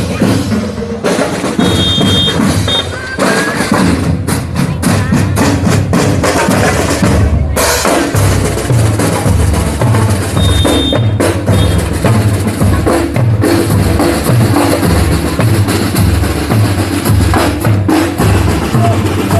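Marching drums playing: quick snare-like strokes and rolls at first, then from about eight seconds in a steady, even bass drum beat. A brief high whistle-like tone sounds twice.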